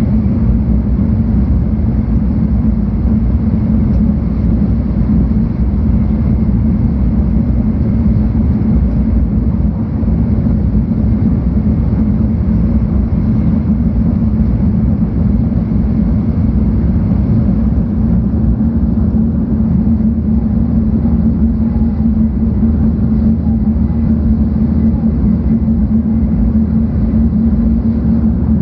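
Steady low rumble of a 700 series Shinkansen train running on the line, heard from inside the passenger cabin.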